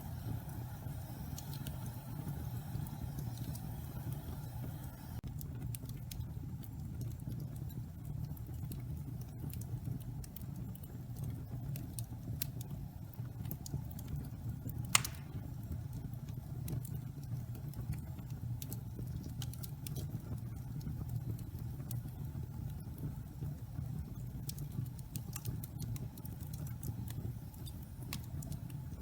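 Pine logs burning in a fireplace: a steady low rumble of the fire with scattered crackles, and one loud pop about halfway through.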